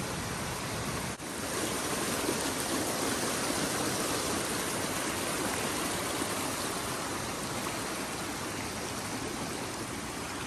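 Creek water flowing and rushing steadily, with a brief break about a second in.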